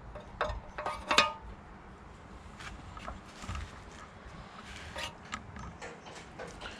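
Steel parts clinking and knocking together as they are handled and checked for fit: a few sharp metallic knocks with a short ring, the loudest about a second in, then lighter scattered clicks.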